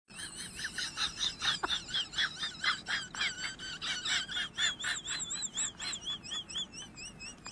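Small birds calling: a fast, even run of sharp chirps, about four to five a second, over a wavering, trilling whistle.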